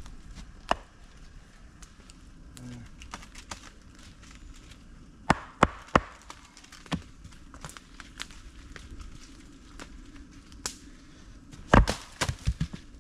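Firewood being split with a steel splitting wedge: a string of sharp, separate strikes and knocks, irregularly spaced, the loudest near the end.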